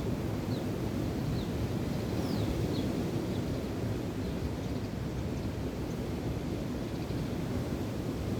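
Steady wind and waves make an even, low rumbling noise, with wind buffeting the microphone. Over it come a handful of short, high bird chirps, each falling in pitch, in the first few seconds.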